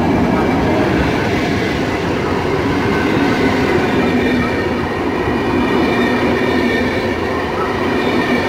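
PKP Intercity passenger coaches rolling past along a station platform: a steady, loud rolling noise of wheels on rail, with faint steady high-pitched whines above it.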